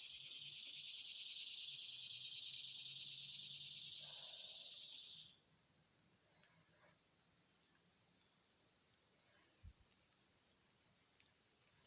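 Insects shrilling outdoors: a dense, rapidly pulsing high buzz that cuts off suddenly about five seconds in, leaving a fainter steady high-pitched insect trill.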